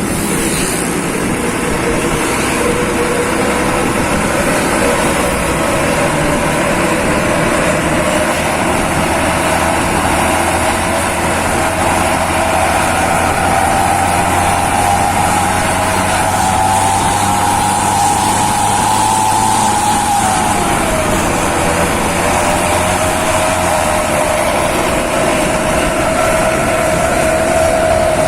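Truck engine running under way through a loud aftermarket 'serigala' exhaust. Its pitch climbs slowly as it pulls, drops abruptly about twenty seconds in as with a gear change, then holds steady.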